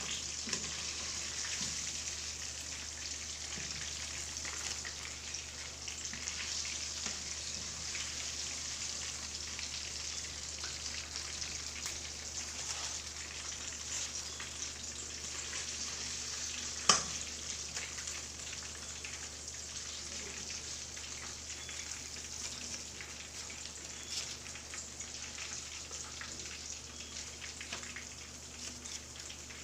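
Breaded chicken pieces frying in hot oil, a steady crackling sizzle, with one sharp clink a little over halfway through.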